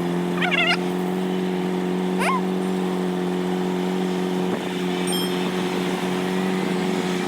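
Truck engine running at a steady, unchanging speed. A couple of brief high chirps sound over it, about half a second and two seconds in.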